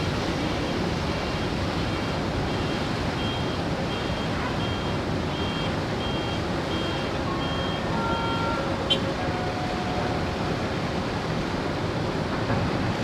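Steady vehicle and machinery noise with an electronic warning beeper sounding about twice a second, stopping about eight seconds in, followed by a few short single tones.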